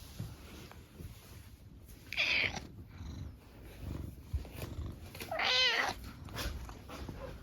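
Brown tabby cat meowing twice: a short breathy call, then a few seconds later a longer meow that rises and falls in pitch. These are the soft attention-seeking meows a cat gives when asking for affection.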